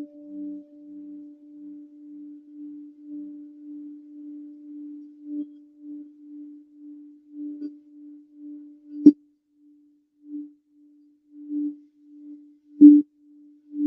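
Crystal singing grail sounding one steady, pure tone that wavers in loudness. About nine seconds in it is struck sharply, and after that the tone comes in short pulses with more strikes near the end.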